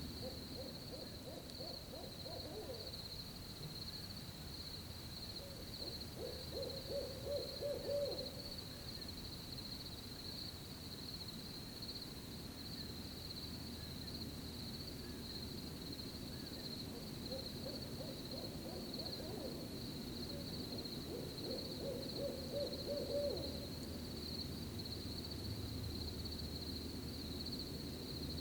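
Owl hooting in four bouts, each a quick run of several hoots, over a steady high chirring of crickets.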